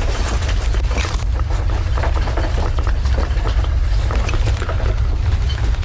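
Earthquake shaking: a steady deep rumble with continual rattling and clattering of loose objects.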